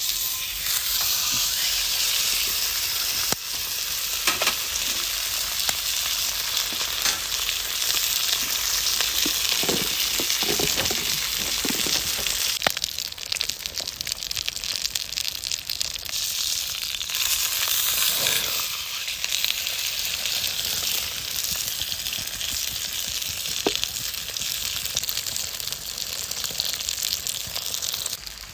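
Thick sirloin steak searing over a campfire, a loud steady sizzle with scattered pops and crackles. It starts and stops abruptly.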